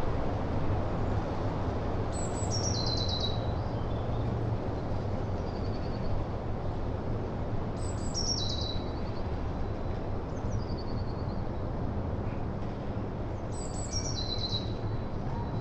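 A songbird sings a short phrase of high notes stepping down in pitch, three times about six seconds apart, with softer short phrases in between, over a steady low background noise.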